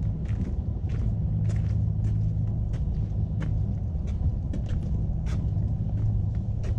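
Steady low rumble with frequent light clicks at an irregular pace, a few each second.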